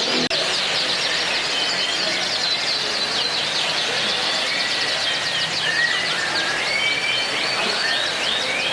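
Several canaries singing at once: a dense, overlapping stream of quick high chirps, trills and short whistled notes, with a rapid run of repeated notes near the end.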